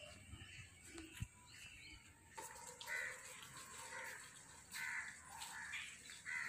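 Faint bird calling over and over: about five short calls under a second apart, starting a little before halfway.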